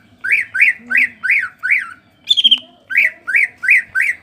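Green leafbird (cucak ijo) calling in the rapid repeated 'ngentrok' style: a fast run of sharp, arching whistled notes, about three a second, broken once near the middle by a single higher note.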